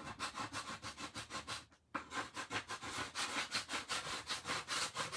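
Rapid scraping strokes, about five or six a second, scraping dried shimmer paste off a craft board, with a short pause about two seconds in.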